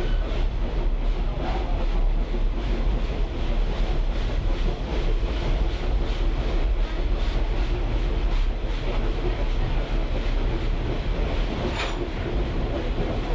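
A caboose rolling along the track, heard from on board: a steady low rumble with frequent light clicks and knocks from the wheels and running gear. There is one sharper knock near the end.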